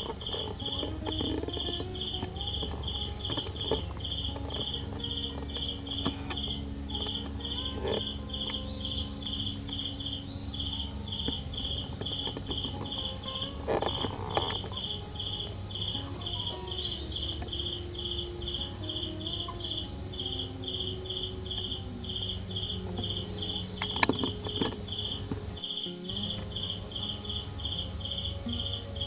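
Insects chirping in a steady, even pulse of about two to three chirps a second over a continuous high-pitched drone. A few short knocks stand out, one about halfway and the loudest a few seconds from the end.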